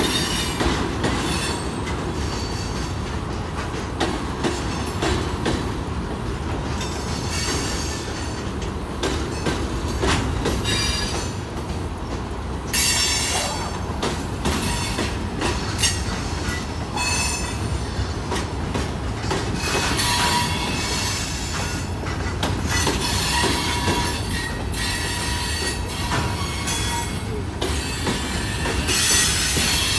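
Freight train cars, tank cars and covered grain hoppers, rolling past with a steady rumble of steel wheels on rail. High-pitched wheel squeal comes and goes in stretches, with sharp clacks as the wheels cross rail joints.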